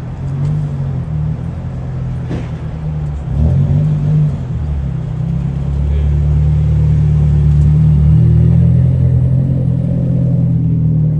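Car engine rumbling loudly at low revs. It swells briefly about three and a half seconds in, then holds louder and steady through the second half.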